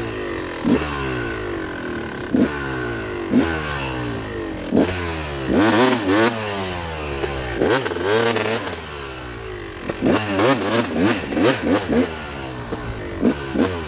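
Dirt bike engine revving on a hill climb: in the first half the pitch repeatedly drops with a knock about once a second, then the engine is revved up and down a few times, with a quick run of short throttle blips near the end.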